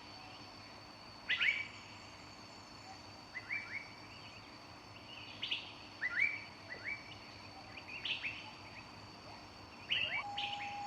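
Birds chirping in short bursts of quick calls every second or two over a faint steady high-pitched whine. Near the end a steady mid-pitched tone comes in.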